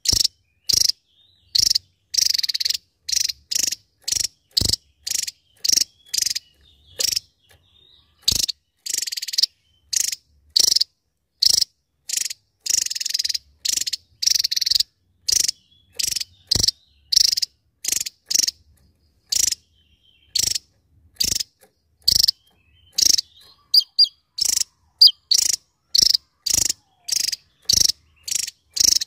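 Javan tesia calling in rapid, harsh 'shooting' notes (tembakan): a quick series of short, sharp bursts, about one and a half a second, with a few longer ones and faint thin chirps between them.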